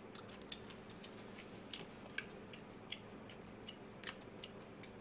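Faint chewing of fried chicken: scattered small crisp clicks and crunches, a few a second.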